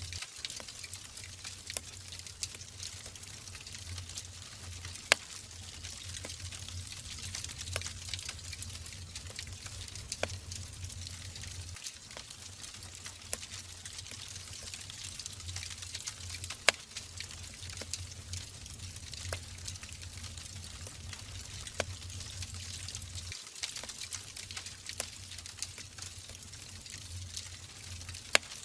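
Wood fire burning in a fireplace: a steady hiss of the flames with many small crackles and scattered sharp pops from the logs, a few louder snaps among them.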